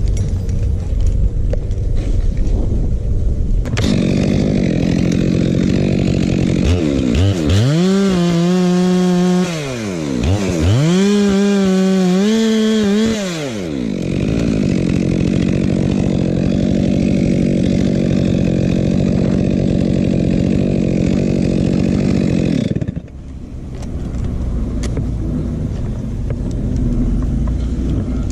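Two-stroke chainsaw engine starting up about four seconds in and idling. It is revved up and back down twice, then idles steadily until it cuts off suddenly about twenty-three seconds in.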